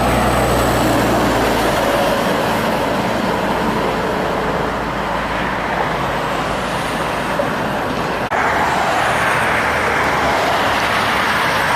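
Steady road traffic with trucks passing, tyre and engine noise. A low engine drone fades out about a second in, and the sound breaks off sharply about eight seconds in before the traffic noise resumes.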